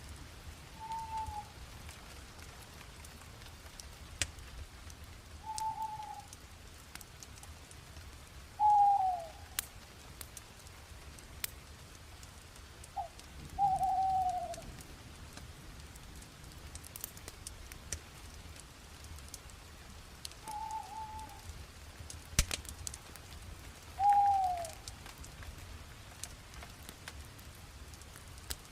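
Wood fire crackling with a steady hiss and occasional sharp pops, while a bird calls a short falling note six times.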